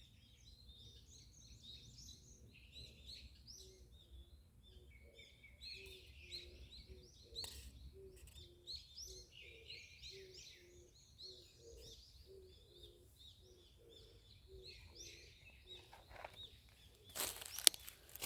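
Small birds chirping and twittering steadily, with a low note repeating about twice a second through the middle. Near the end there are a few loud rustles and knocks.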